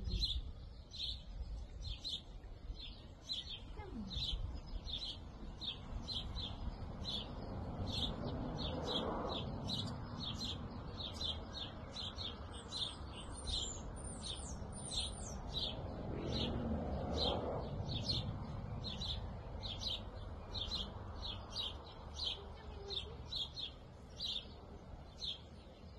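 A small bird chirping over and over in a steady rhythm, about two short chirps a second, with a brief higher twitter midway. A low steady rumble lies underneath.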